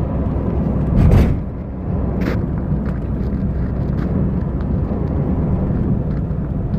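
Steady low road and engine rumble of a car driving through a sandstorm, heard from inside the cabin, with a brief louder rushing surge about a second in.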